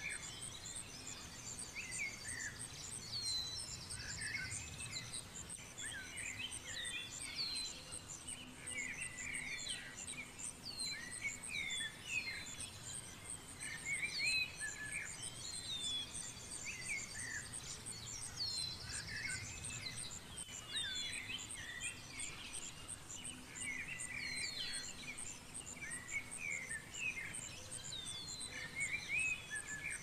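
Songbirds singing and chirping, with many short sweeping calls and a few buzzy trills, over a fast, even, high-pitched pulsing and a faint low rumble.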